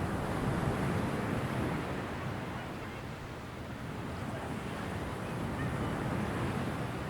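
Ocean surf: waves washing in and drawing back in a steady rushing hiss that swells about a second in, eases off in the middle and builds again near the end.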